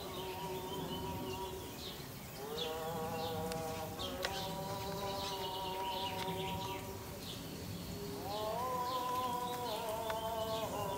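Small birds chirping, short falling notes repeated over and over, above a steady droning hum. The hum slides up in pitch about two seconds in and again near the end.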